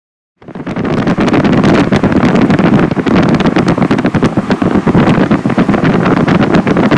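Loud wind buffeting the microphone: a steady rumbling roar with constant crackles, starting abruptly just after the start.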